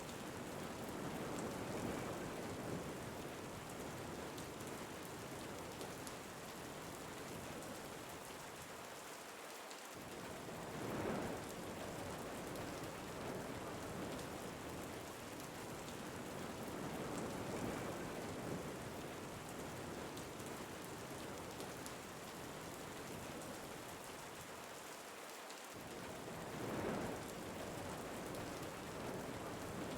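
Steady rain ambience, an even hiss of rain falling on a surface, swelling briefly twice about sixteen seconds apart in a repeating pattern.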